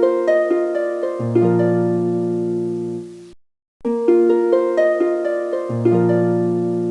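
Background music: a short, gentle melody of plucked harp-like notes, each note ringing and fading. It breaks off about three and a half seconds in and starts over as a loop.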